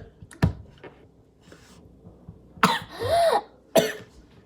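A person coughing several times: a short cough about half a second in, then a longer, louder, voiced cough with a throat-clearing rasp a little over two and a half seconds in, and another sharp cough near the end.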